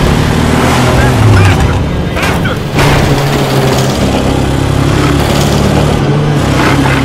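Film soundtrack mix of a car engine running under music, with a sudden loud change about two and a half seconds in.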